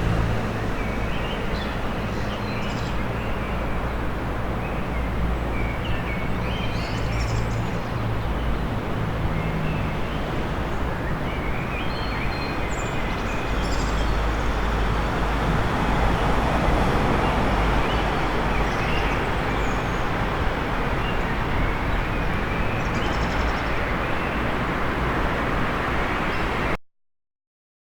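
City park soundscape: steady traffic noise with a low engine hum early on, and small birds chirping now and then above it. It cuts off suddenly near the end.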